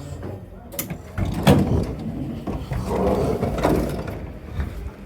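V-set electric intercity train moving through the station, its wheels clattering with several sharp knocks over the rail joints, loudest from about a second in and easing off near the end.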